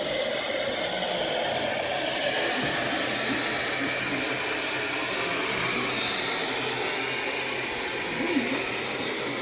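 Steady hiss of steam escaping from a small French-built 0-4-0 steam locomotive, with a slight change in its tone about two seconds in.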